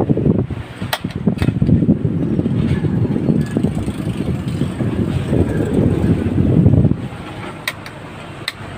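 Electric fan running, its airflow buffeting the microphone with a loud rumbling wind noise that drops away about seven seconds in. A few sharp clicks come, two about a second in and two near the end.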